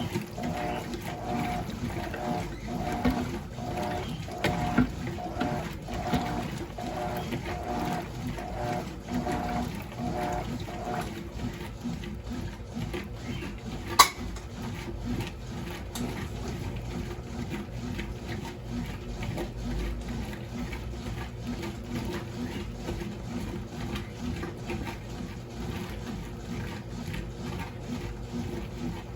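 Top-load washing machine (Electrolux Turbo Limpeza Premium 6 kg) agitating a wash load. For about the first ten seconds the motor's hum pulses about one and a half times a second, once per agitator stroke. A sharp click comes about halfway through, and then a steadier running hum continues.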